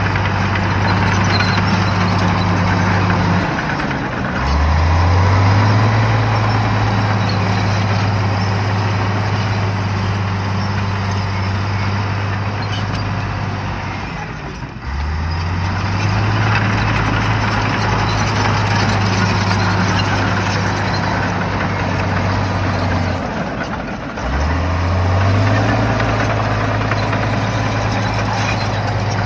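Shantui bulldozer's diesel engine working hard, running at high revs, then briefly dropping and revving back up three times, about every ten seconds.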